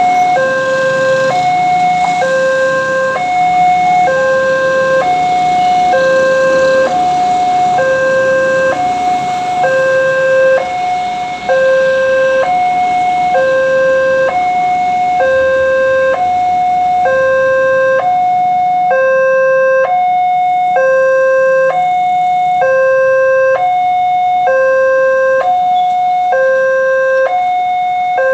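Indonesian railroad level-crossing warning alarm sounding: a two-tone electronic signal alternating evenly between a lower and a higher note, about one high-low pair a second, warning that a train is approaching and the gates are closing.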